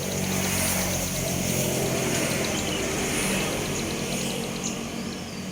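Steady engine hum of a running motor vehicle, with a fast, even row of faint high ticks over it and a few short high chirps near the end.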